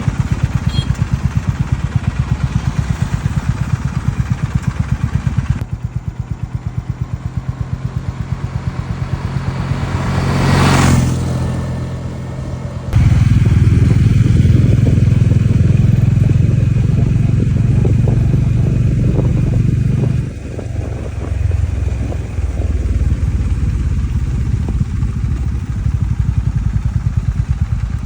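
Kawasaki W650 air-cooled parallel-twin engine idling with an even run of exhaust pulses. It grows louder for several seconds midway through, with a brief swell and fade about ten seconds in.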